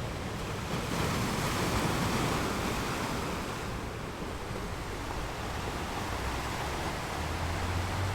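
Ocean waves rolling in as a steady wash of surf, swelling about a second in and easing off after a few seconds. A low rumble comes in near the end.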